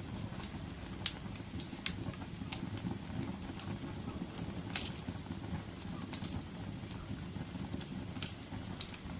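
Wood fire burning: a steady low rustling roar of the flames with scattered sharp crackles and pops, the loudest about a second in and near the middle.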